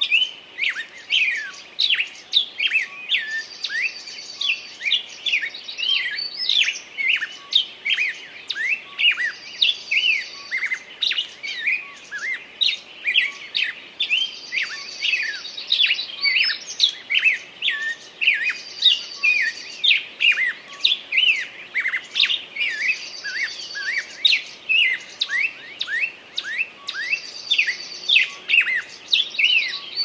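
Songbirds chirping almost without pause: quick, overlapping up-and-down chirps, with a high, buzzy trill that comes back every few seconds.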